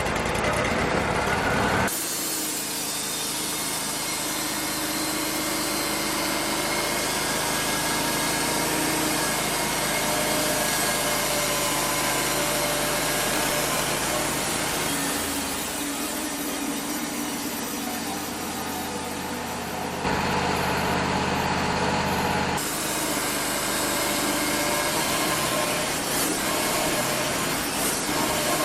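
Wood-Mizer LT35 portable band sawmill running, its engine holding steady while the band blade saws through cedar. The sound changes abruptly about two seconds in, again at about twenty seconds, and once more a couple of seconds later.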